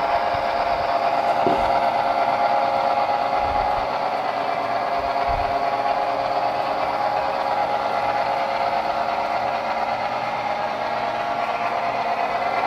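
Model train running on the layout track: a steady electric-motor whine with the wheels rattling along the rails, and a few soft low thumps.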